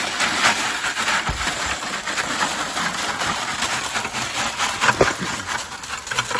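Creek gravel and rocks being scattered and spread across a wooden sifter's wire screen: a continuous dense rattle of small stones, with a couple of heavier knocks, the loudest about five seconds in.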